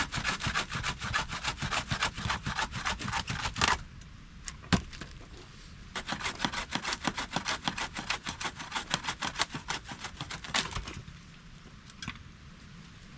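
A hand saw cutting through firewood in fast back-and-forth strokes, in two bouts of about four seconds each, with a short pause and a single knock between them.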